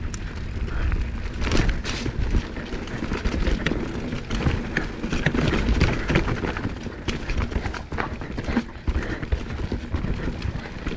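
Mountain bike rattling over a rough downhill trail at speed, with irregular clattering knocks from the frame, chain and tyres hitting rocks and roots, and a steady rumble of wind on the microphone.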